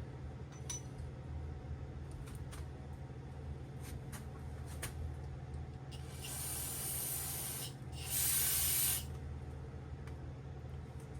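Two short hissing bursts of spray from an aerosol can, about six and eight seconds in, the second louder, after a few light metallic clicks.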